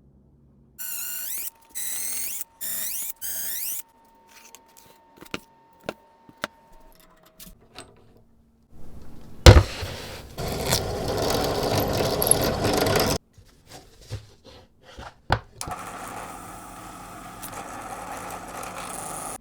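Workshop power-tool sounds: four short whining runs of a small motor, then scattered clicks. About nine seconds in comes a sharp knock and a loud, rough run of a few seconds, and near the end a steadier, quieter running sound.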